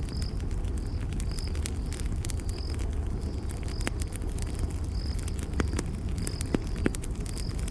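Campfire crackling: a steady low rush of burning wood with scattered sharp pops and snaps, the loudest a few seconds from the end. A cricket chirps in short high notes about once a second.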